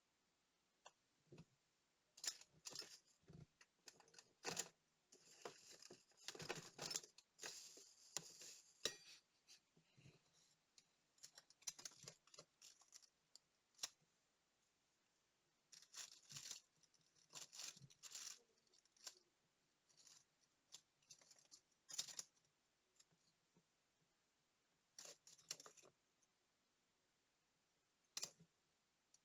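Scattered small clicks and short scratchy scrapes of hand tools on the small metal and plastic parts of a digital wristwatch, with quiet gaps between them.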